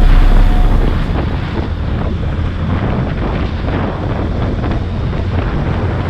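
Wind buffeting the microphone of a moving motorcycle, with a steady low rumble underneath.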